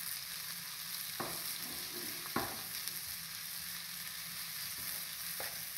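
Sliced onions with garlic, ginger, curry leaves and green chillies frying in oil in a pan: a steady sizzle, with three short knocks of the stirring spoon against the pan.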